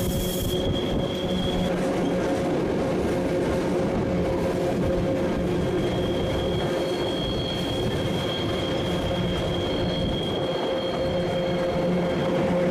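Train running on rails: a steady rumbling rattle with a high wheel squeal that drops out for a few seconds and comes back. The sound cuts off abruptly at the end.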